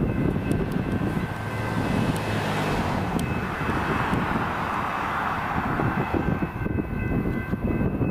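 A train passing: a steady low rumble of wheels on rail with a rushing noise that swells in the middle and eases off, and faint steady high tones over it.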